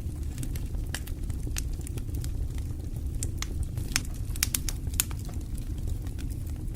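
Wood fire burning in a fireplace: a steady low rumble of flames with irregular sharp crackles and pops, a cluster of them about four to five seconds in.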